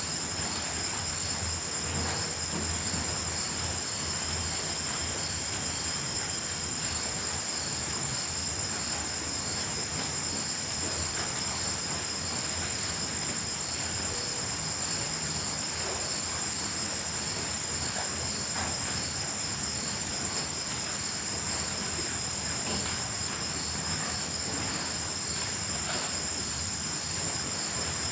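Night chorus of crickets trilling steadily: a continuous high-pitched ring with a fainter chirp repeating at an even pace beneath it.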